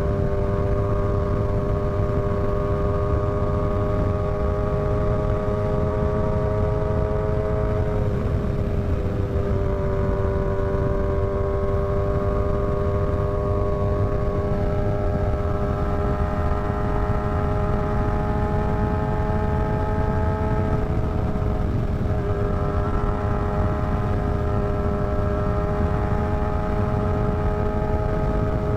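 Motorcycle engine running steadily under way, its note creeping slowly higher and dipping briefly twice, about eight seconds in and again about twenty-two seconds in, over a steady rumble of wind.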